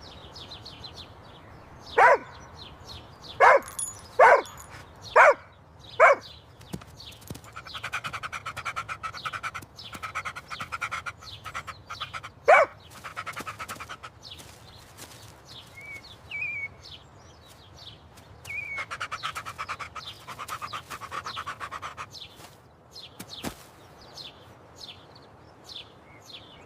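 Golden retriever puppy barking in short, sharp yaps: five in quick succession between about 2 and 6 seconds in, then one more about 12 seconds in. In between come stretches of fast, rhythmic panting-like pulsing.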